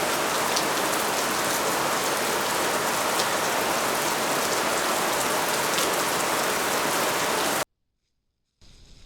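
Steady rain falling and pattering on surfaces, an even dense hiss that cuts off suddenly near the end.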